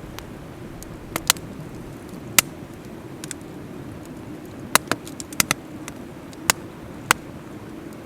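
Wood campfire burning, crackling with sharp pops at irregular intervals over a steady low noise.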